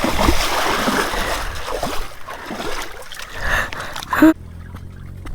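Water splashing and sloshing, loudest in the first two seconds and then easing. About four seconds in it cuts off abruptly, leaving a quieter, steady low hum.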